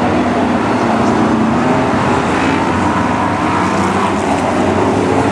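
Several BriscA F1 stock cars' V8 engines running around the oval together, their notes rising and falling as the cars lap.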